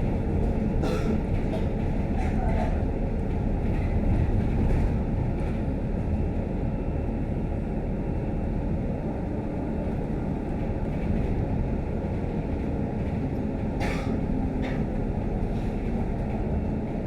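Interior noise of a Scania K310UD double-decker bus on the move: a steady low rumble of engine and road noise, with a few short clicks or rattles about a second in and again near the end.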